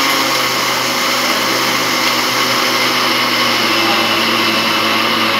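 Electric blender running steadily at full speed, mixing cake batter of eggs, sugar, oil, milk and flour.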